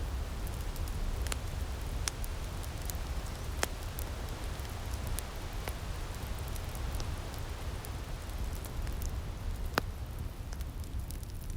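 Outdoor wood fire in a firepit crackling, with scattered sharp pops over a steady low rumble; one of the loudest pops comes near the end.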